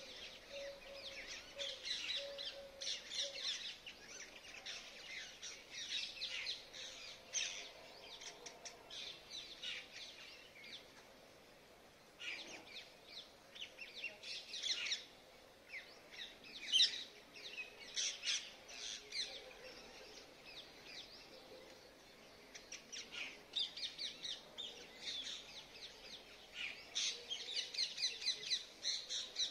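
Birds chirping outdoors: clusters of quick, high-pitched chirps with short lulls between them, busiest in the last few seconds.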